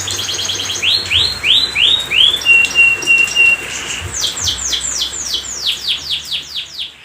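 Domestic canary singing a string of repeated phrases: a fast trill, a run of down-swept notes, four short steady whistles, then another quick run of down-swept notes, stopping near the end.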